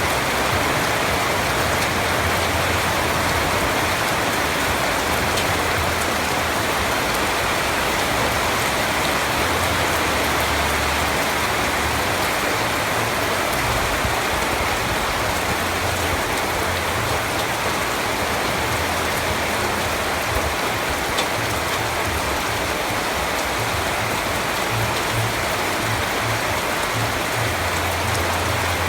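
Steady rain falling on a surface, an even hiss of drops with a faint low rumble underneath.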